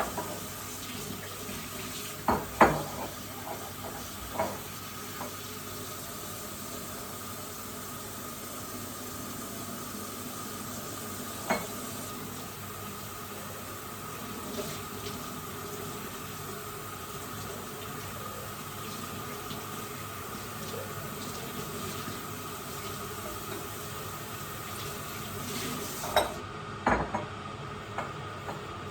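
Water running steadily into a sink while things are washed, with a few sharp clinks and knocks of hard items being handled, several close together near the end.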